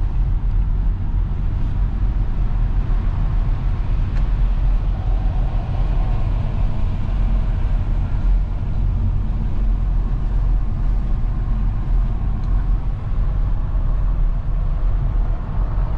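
Steady road and wind noise from a car driving at speed: a heavy low rumble with a hiss above it, unbroken throughout.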